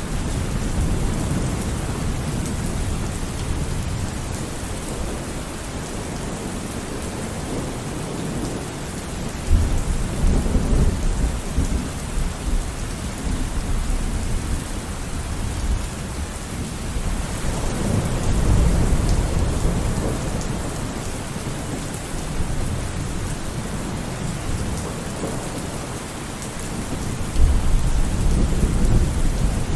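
Steady rain falling, with thunder rumbling through it: a deep rumble breaks in about a third of the way through, a longer swell rolls past about two-thirds in, and another rumble hits near the end.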